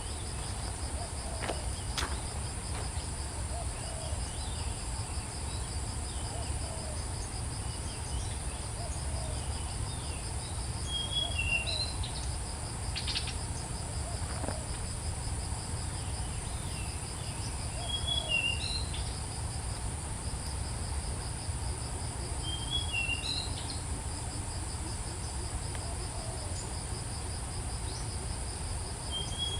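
A steady high drone of insects, such as crickets or cicadas, with short bird chirps coming in small clusters every few seconds, over a low rumble.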